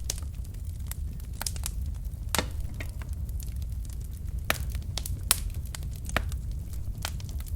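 Wood fire of burning logs crackling, with irregular sharp pops and snaps over a low steady rumble of the flames.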